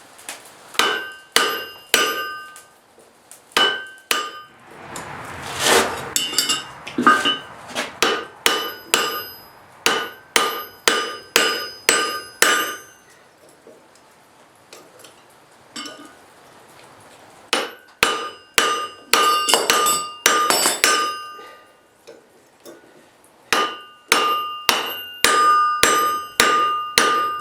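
Hand hammer striking hot steel on an anvil in runs of blows, about two to three a second, with the anvil ringing after each blow. Short pauses come between the runs, and there is a brief hiss about five seconds in.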